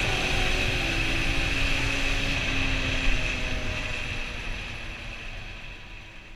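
Derbi Senda X-Treme R motorcycle engine running while riding, with its pitch stepping down a little in the first half. The sound fades out steadily toward the end.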